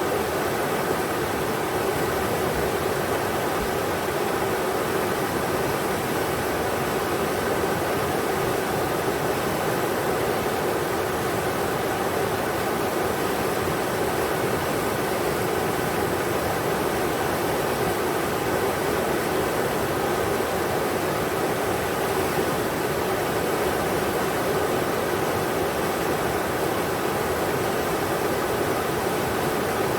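River water rushing steadily over rocks, an unbroken hiss and roar with no change in level.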